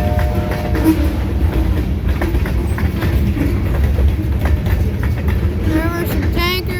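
Great Lakes Central Railroad freight train rolling past: a steady low rumble with the clickety-clack of wheels over the rail. Brief wavering high-pitched sounds come near the end.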